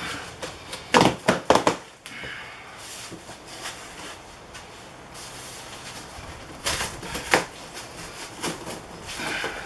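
Handling noise from a heavy benchtop planer being wrestled out of its packaging. A quick cluster of sharp knocks comes about a second in, then rustling and scraping, and two more sharp knocks a little past the middle.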